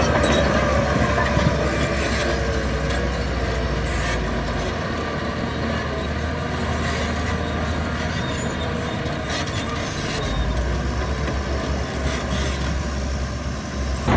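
Heavy diesel earthmoving machinery running steadily under load: a low engine rumble with continuous rattling and clanking over it.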